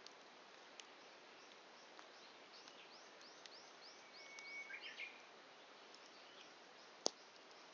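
Wood campfire burning down toward embers, with a faint hiss and a few scattered crackles, one sharp pop about seven seconds in. In the middle a bird sings a quick series of about eight repeated high notes.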